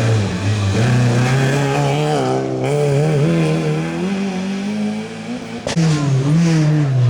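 Rally car engine held at high revs, its pitch climbing and wavering, dropping sharply as the driver lifts or shifts and climbing again. There is a single sharp crack a little past halfway.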